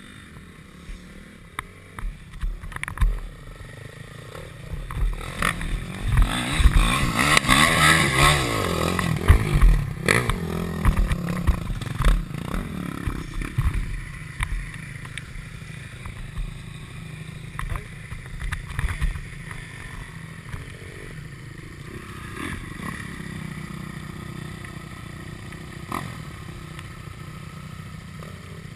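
KTM 250 SX-F four-stroke single-cylinder motocross engine revving up and down as the bike is ridden, loudest between about five and ten seconds in, with scattered knocks and clatter from the bike over rough ground.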